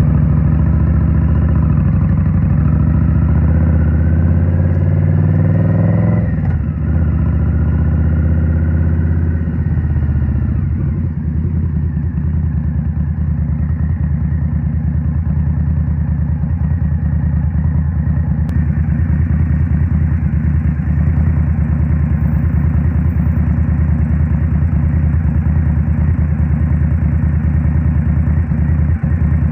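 Indian Scout Rogue's 69 cubic-inch liquid-cooled V-twin through a Rinehart slip-on exhaust: it pulls with rising pitch for the first six seconds or so, eases off, and from about ten seconds in settles into a steady low-rpm beat.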